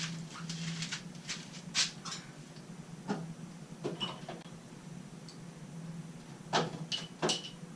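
Metal lathe parts being handled: scattered clicks and clacks of the drill chuck, drive centre and handle being fitted, a few with a short metallic ring, over a faint steady hum.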